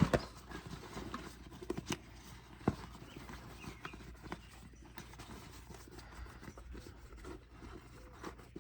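Irregular clicks, taps and knocks of hands working on an e-bike tire and wheel, a few of them sharper and louder, about 2 and 2.7 seconds in.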